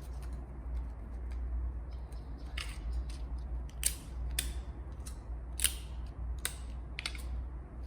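Paper template sleeves being handled and fitted onto a steel tube: a scattered series of short, crisp crinkles and clicks, about six of them, over a steady low hum.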